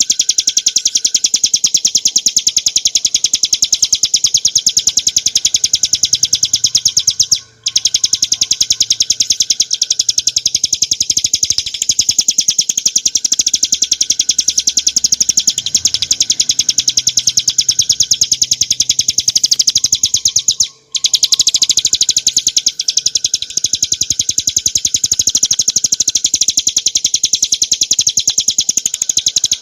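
Bar-winged prinia (ciblek gunung) singing a rapid, high-pitched, unbroken chattering trill, cut off briefly twice, about a third and two thirds of the way through.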